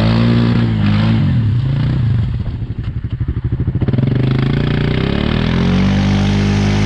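ATV engine revving hard under load while the quad works through a deep mud hole. The revs rise, fall to a low pulsing about three seconds in, then climb again and hold high.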